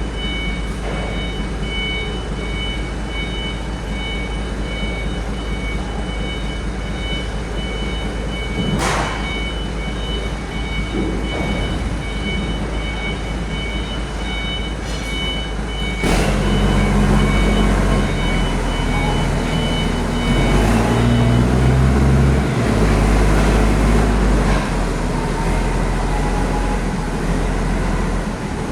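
A heavy diesel truck engine running with a low drone while a two-tone alarm beeps in a steady pulse; about halfway through the engine revs up louder and its pitch rises and falls, and the beeping stops a few seconds later. Two sharp clicks come before the revving.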